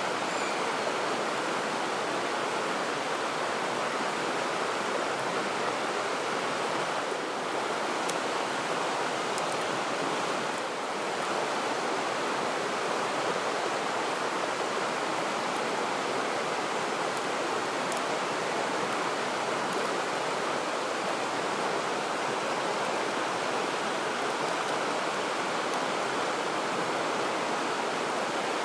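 Steady rushing of a stream's running water, even and unbroken.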